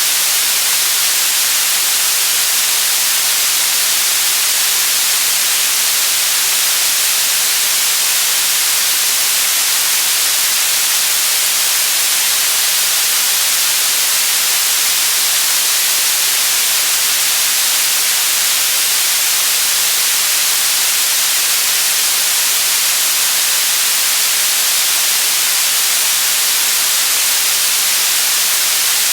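Steady synthetic white noise: an even, unchanging hiss, strongest in the high frequencies, with no other sound.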